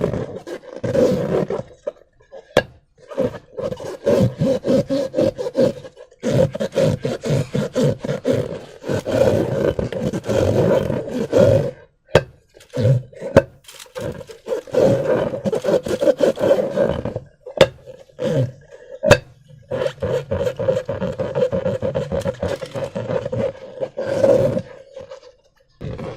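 Rubber balloons filled with slime being squeezed and worked by hand: a rough, buzzing rubber sound in stretches of a few seconds with short pauses, and a few sharp clicks.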